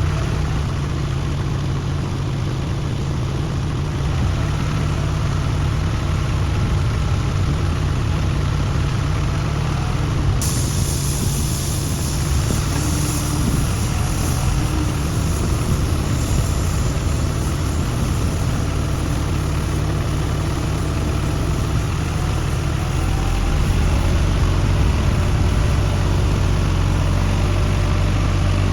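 A large engine running steadily at idle, a continuous low hum. The hum grows somewhat louder a little past two-thirds of the way through.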